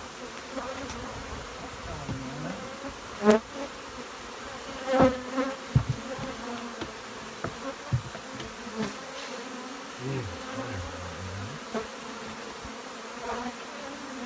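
Africanized honey bees buzzing steadily in a thick swarm, a continuous hum with a higher overtone. A few sharp knocks cut through it, the loudest about three seconds in and just before six seconds.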